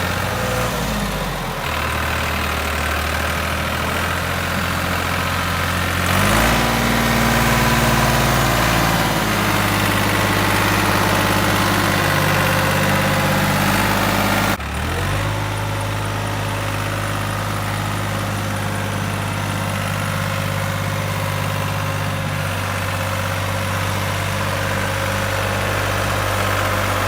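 Tractor engine running: its speed falls about a second in, rises and gets louder around six seconds, then drops abruptly at about fourteen and a half seconds and settles into a steady run.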